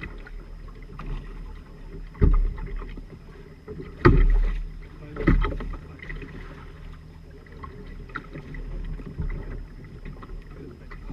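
Sailing trimaran underway, with steady water and hull noise. Irregular heavy thumps come at about two, four and five seconds in.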